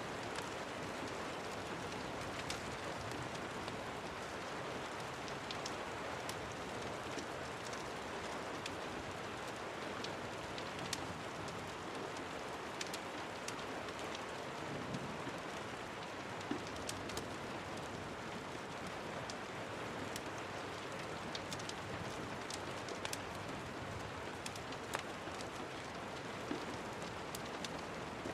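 Steady rain falling, an even hiss of rain on surfaces, with many short sharp clicks scattered through it.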